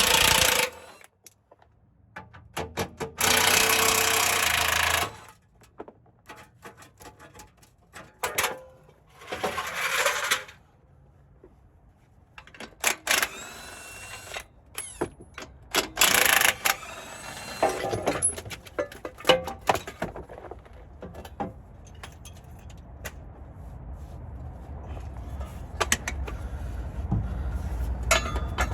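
Several bursts of a power tool, with clicks and clanks of tools and metal parts in between.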